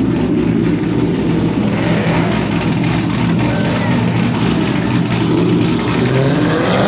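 Car engines running loudly, with some revving.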